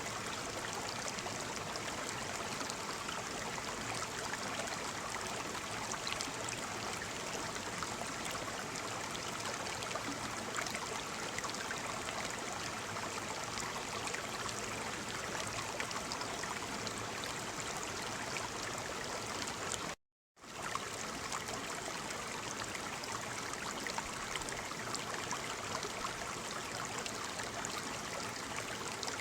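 Waterfall: a steady, even rush of falling water, broken once about two-thirds of the way through by a half-second gap of silence.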